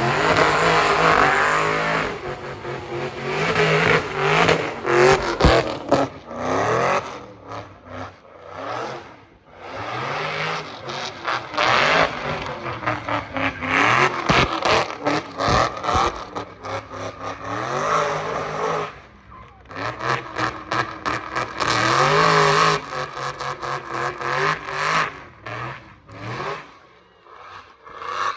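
Car engine revving hard again and again, its pitch climbing and dropping in repeated surges, with short lulls between runs.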